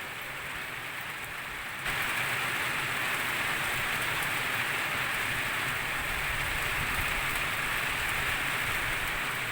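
Steady rain, which gets suddenly louder about two seconds in and then holds steady.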